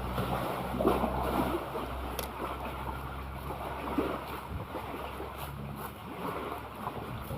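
Sea water splashing and lapping, with scattered clicks and a low steady hum underneath that drops away about four and a half seconds in.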